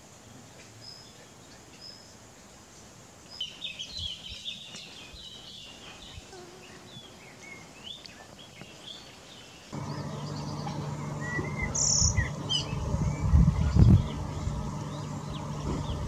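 Wild birds calling, with high chirps and short twittering phrases from about three seconds in. About ten seconds in, a steady low hum cuts in suddenly, with loud low thumps near the end, while bird notes go on above it.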